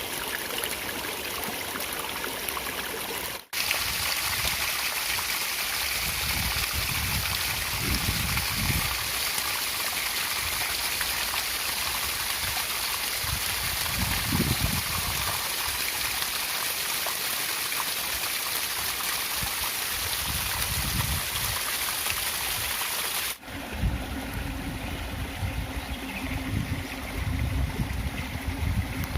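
Stream water flowing and rushing steadily, with occasional low gurgling swells. The sound breaks off for an instant twice, where recordings are joined, and after the second break it is slightly different.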